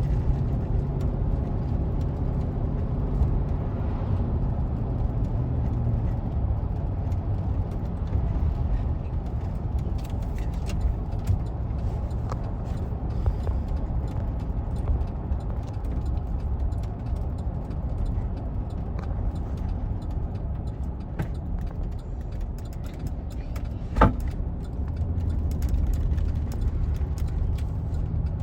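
Steady low rumble of a car driving, heard from inside the cabin, with a single sharp click near the end.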